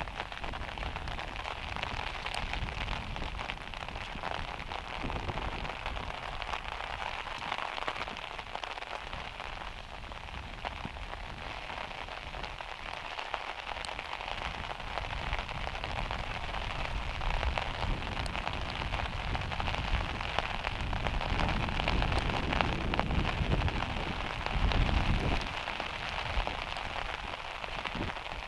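Heavy rain hitting the metal roof of a van: a steady dense patter with many single drop strikes standing out. A low rumble swells briefly near the end.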